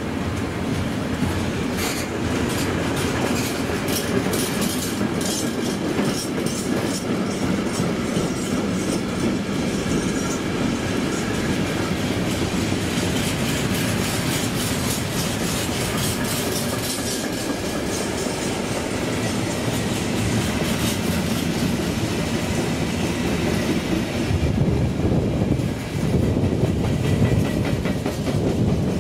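A train running past, its wheels clattering rhythmically over the rail joints over a steady rumble; the clatter thins out a little past halfway.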